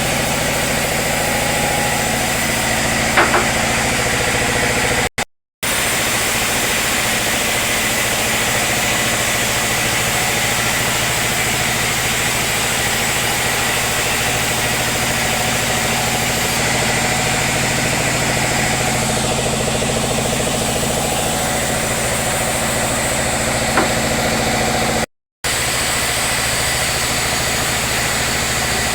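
Sawmill machinery running with a steady engine-like drone, with a sharp knock a few seconds in and another near the end. The sound cuts out briefly twice.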